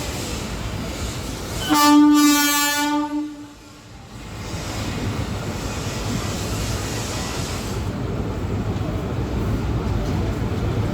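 A train running with a steady rumble. Its horn sounds one blast of just over a second, about two seconds in.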